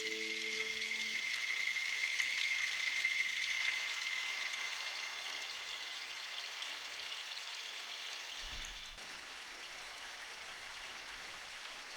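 Steady rain hiss. A high held tone fades out over the first few seconds, and low held tones stop about a second in. The rain grows a little quieter about nine seconds in.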